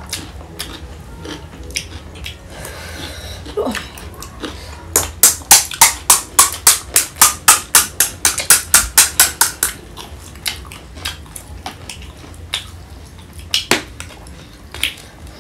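Crisp snack food crunched close to the microphone while being chewed: a fast, even run of loud crunches, about five a second, for several seconds in the middle. A few single clicks come near the end.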